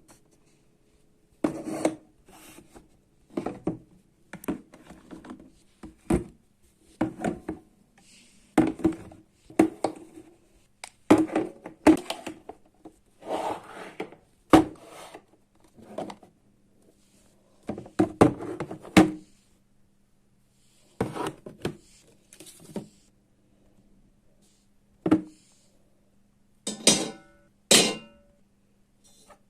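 Household objects being handled and set down on a hard surface: a series of knocks, taps and clatters about once a second, with a few clinks that ring briefly near the end, over a faint steady hum.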